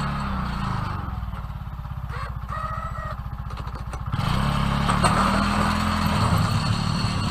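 Engine of a vehicle used for plowing snow running, easing down to a slow, even putter for a few seconds, then revving up and getting louder about four seconds in.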